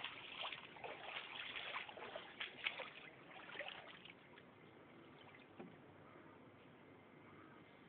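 Floodwater splashing and trickling in quick, irregular bursts, dying down after about four seconds to a faint steady hiss.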